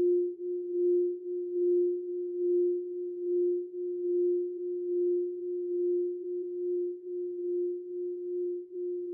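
Singing bowl ringing on one low, steady tone that swells and dips in a slow wobble a little faster than once a second, growing gradually softer.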